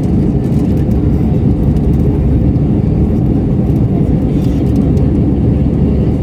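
Steady low roar of an Airbus A320's jet engines and rushing air, heard from inside the passenger cabin in flight shortly after takeoff.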